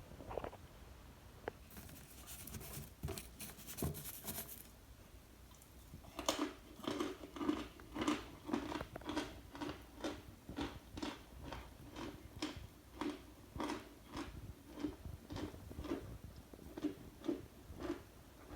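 Starch being crunched: a brief crackling stretch a couple of seconds in, then, from about six seconds in, a steady series of chewing crunches, about two a second.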